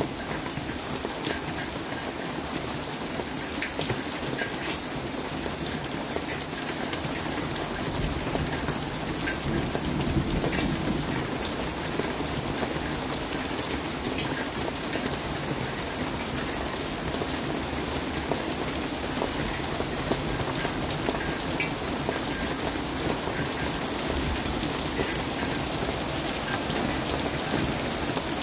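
Steady rain, with many separate drops ticking sharply on a hard surface. A low rumble of distant thunder swells about a third of the way in.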